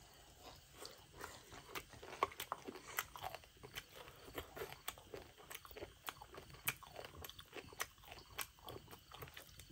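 A person chewing a mouthful of fried buffalo meat eaten by hand: irregular wet mouth clicks and smacks, a few a second.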